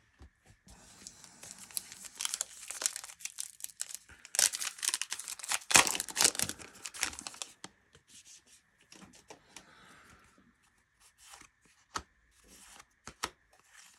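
Crinkling and tearing of a trading-card pack wrapper, loudest about four to seven seconds in, followed by scattered light clicks and rustles of cards being handled.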